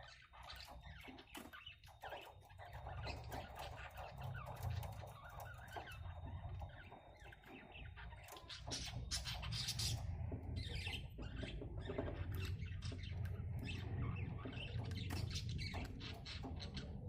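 Budgerigars squawking and chirping in short, rapid calls, busier in the second half, over a low rumble.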